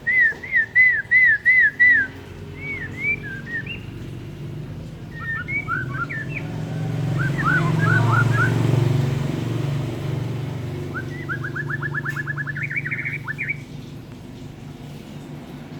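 White-rumped shama singing: a quick run of six alike downslurred whistles, then scattered varied notes, then a fast rattling trill about two-thirds of the way through. A low engine hum swells and fades under it midway.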